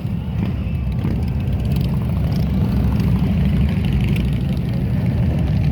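Many motorcycle engines rumbling steadily as a large column of motorcycles rolls past.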